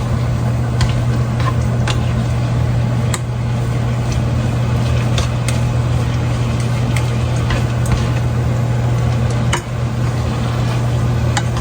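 Pasta being tossed and stirred in a pan of cream sauce, a utensil clicking against the pan now and then, over a steady low mechanical hum.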